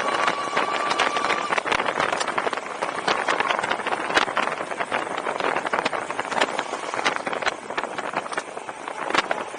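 Wind noise on the microphone of a moving Mate-X fat-tire electric bike, full of rapid crackles and rattles. A steady high squeal runs underneath and stops about a second and a half in.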